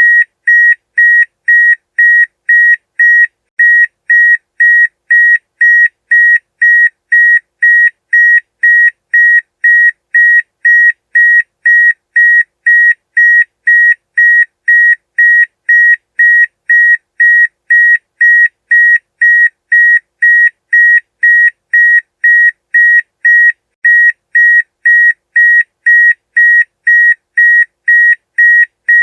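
Electronic alarm beeping to wake a sleeper: a single high-pitched tone pulsing on and off evenly, about two loud beeps a second, unchanging throughout.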